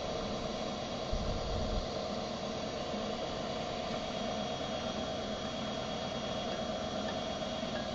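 Comet 3KVHD knee mill's spindle running steadily while center drilling a hole in a wheel, a constant machine hum with a few steady tones. A brief low rumble comes about a second in.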